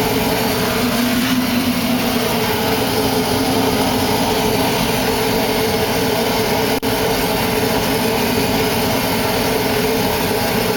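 1939 oil-fired furnace running, its oil burner firing with a loud, steady, even noise.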